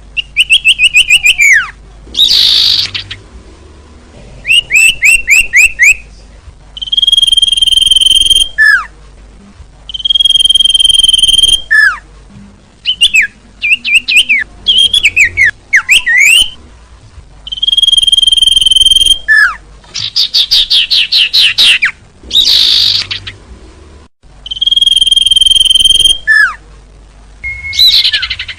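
Lure recording of common iora (cipoh/sirtu) calls: loud, clear whistled notes held for about a second alternate with quick runs of chirps, sharp falling notes and short raspy bursts. The phrases repeat in a cycle with short pauses between them.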